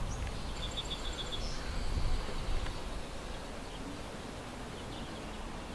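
A small bird calls a quick run of about five high notes near the start, over low wind rumble on the microphone and a faint steady high buzz.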